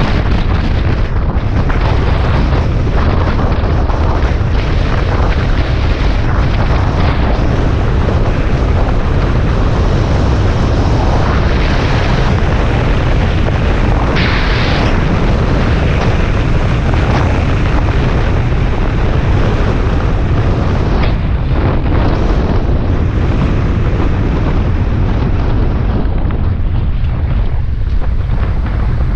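Wind rushing over the microphone of a Suzuki Bandit 650S motorcycle riding at highway speed, its inline-four engine running steadily underneath. Louder rushes of noise come about halfway through.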